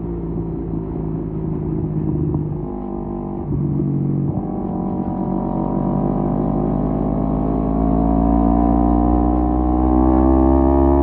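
Kawasaki Z250 parallel-twin engine heard through a SeaPro aftermarket muffler while riding. The note changes in steps about three and four seconds in, then rises slowly and steadily in pitch as the bike accelerates.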